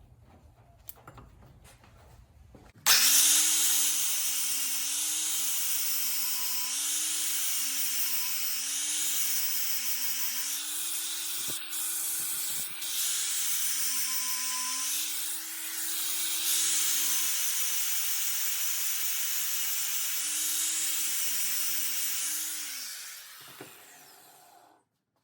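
Angle grinder with a grinding disc cutting into a spring-steel knife blank: it starts suddenly about three seconds in, its motor pitch sagging and recovering again and again as the disc is pressed into the steel and eased off. Near the end the grinder winds down and stops.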